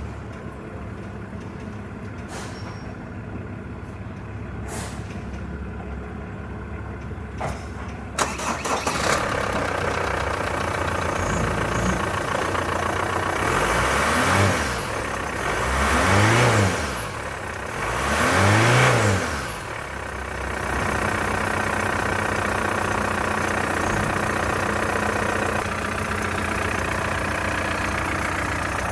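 2015 Holden Captiva's engine being test-run: after a few clicks it starts about eight seconds in and idles. It is then revved three times in quick succession, each rev rising and falling in pitch, and settles back to a steady idle.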